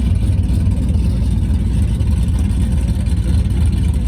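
Performance car engine idling, a steady deep rumble.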